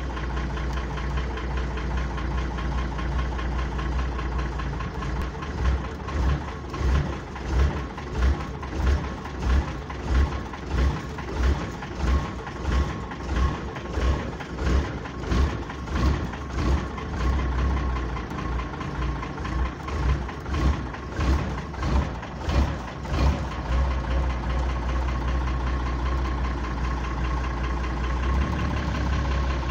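GAZ-4301 truck's 542 diesel engine running harshly with an unexplained knock. For much of the time its sound swells and falls in a regular beat, about one and a half times a second, then settles back to a steady run near the end.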